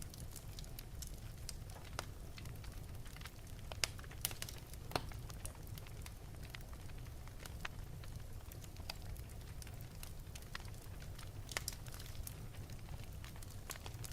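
Wood fire burning in an open fireplace: irregular crackling with scattered sharp pops, a few louder ones, over a steady low rumble of the flames.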